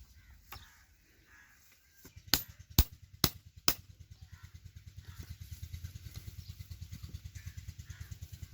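Four sharp metal knocks, then a Petter diesel engine running with an even, fast, low thudding that grows stronger.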